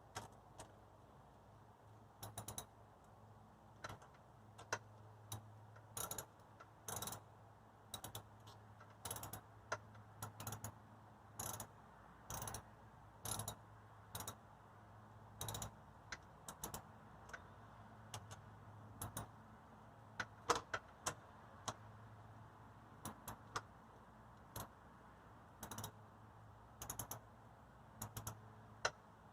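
Hand tools working on metal motorcycle parts: a string of short, sharp mechanical clicks, roughly one a second and sometimes in pairs, over a low steady hum.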